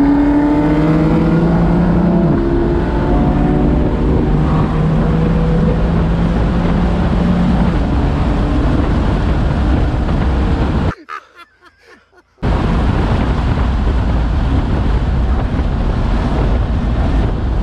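BMW M4's twin-turbo inline-six heard from inside the cabin under load at highway speed, mixed with loud wind and road noise. The sound drops out briefly about eleven seconds in, then comes back.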